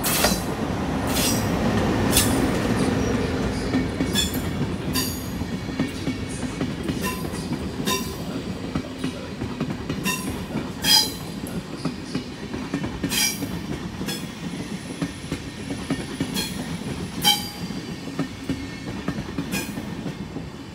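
An ÖBB Taurus (class 1116) electric locomotive and its train of SBB passenger coaches roll slowly past. The locomotive's steady electric hum is loudest in the first few seconds. Then the wheels clack over rail joints and points every second or two, with brief squeals, the loudest clacks about eleven and seventeen seconds in.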